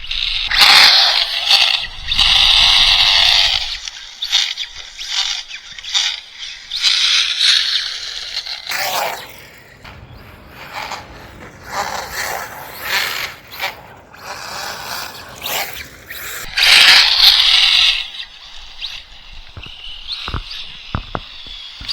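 Radio-controlled Associated SC10 short course truck with buggy slick tyres sliding and scrubbing on the surface as it is driven in drifts, coming and going in bursts. It is loudest from about a second in to four seconds and again around seventeen seconds.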